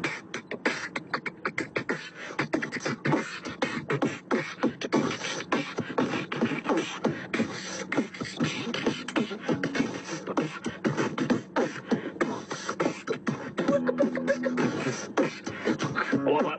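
Human beatboxing: rapid mouth percussion of kick, snare and hi-hat sounds made with lips and breath. Near the end a hummed, pitched line comes in under the percussion.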